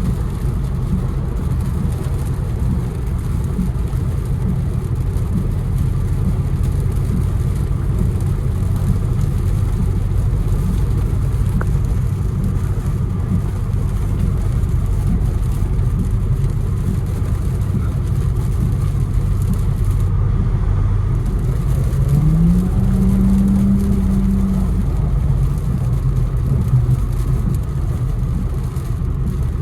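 Infiniti Q60 engine droning steadily under the hiss of tyres on a wet road, heard from inside the car. About two-thirds of the way through, the engine note climbs quickly as the car accelerates, holds higher for a couple of seconds, then drops back.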